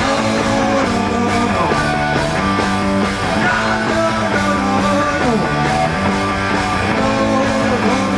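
Live rock band playing an instrumental passage between vocal lines: electric guitar, bass guitar and drums. The full band comes in right at the start after a guitar-led lead-in.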